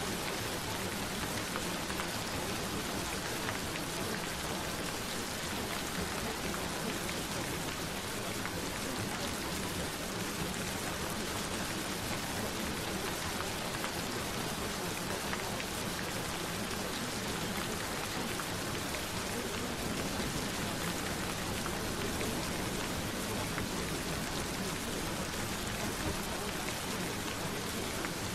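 Steady gentle rain falling, an even hiss of drops with no breaks or changes.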